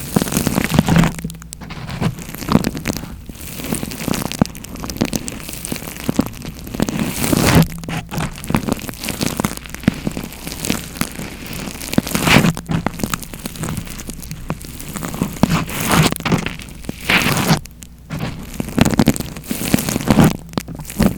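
Close-miked ASMR trigger sounds: dense crackling and rustling right on the microphone, swelling and fading irregularly with a few louder surges.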